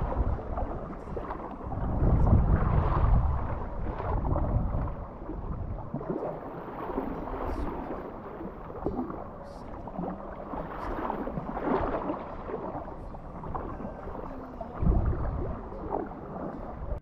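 Water splashing and lapping around a paddled kayak, with wind buffeting the microphone in strong gusts about two seconds in and again near the end.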